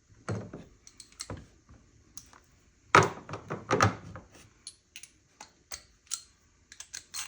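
Irregular clicks and knocks of ignition coil connectors being unclipped and coils pulled off the rear cylinder bank of a 2010 Chevy Traverse's V6, with a burst of louder knocks about three seconds in.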